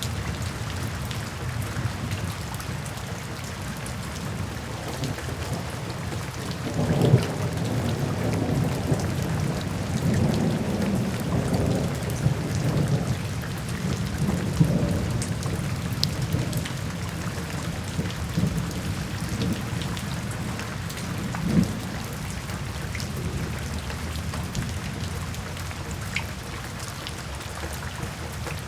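Steady rain with scattered drop ticks. About seven seconds in, thunder rolls low for some eight seconds, and a shorter low crack follows a few seconds later.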